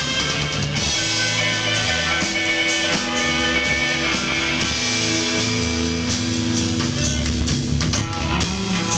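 Live rock band playing, with electric guitar over bass and drums.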